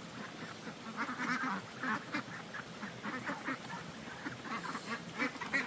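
Fowl calling: a run of short, repeated calls, several a second, loudest about a second in and again near the end.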